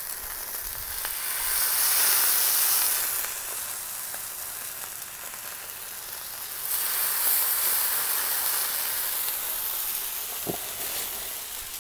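Salmon fillets sizzling in olive oil on a hot Blackstone steel griddle, a steady hiss that swells loud about two seconds in and again about seven seconds in as each fillet is laid down skin side down. A light knock comes near the end.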